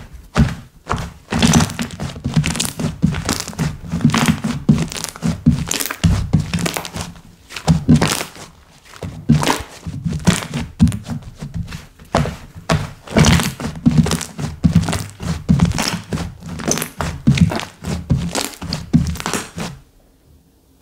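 Slime being squished, pressed and poked by hand, with dense, irregular sticky clicks and pops over low thuds. It stops suddenly near the end.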